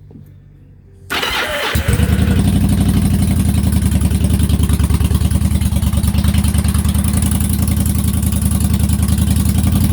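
2004 Yamaha V-Star 1100's V-twin on a cold start: the starter cranks briefly about a second in, then the engine catches and settles into a steady, loud, pulsing idle.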